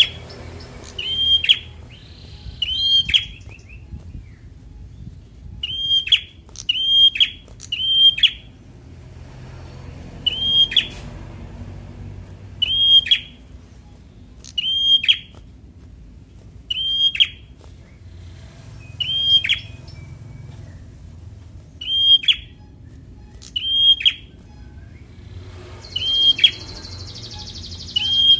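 A prinia (prenjak) calling: one short, sharp, hooked note repeated about every two seconds, with three in quick succession partway through.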